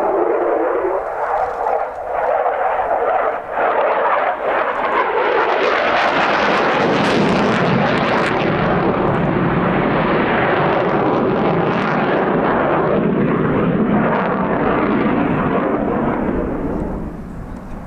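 Aircraft engine noise as a plane flies past: the roar builds over the first several seconds, stays loud, and fades away near the end.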